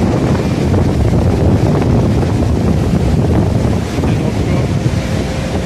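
Very strong wind buffeting the microphone: a loud, steady low rumble.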